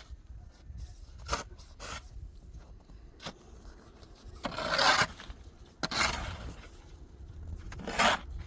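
A tool scraping through cement mortar in three rasping strokes, the first about halfway in and the last near the end, with a few light knocks between them.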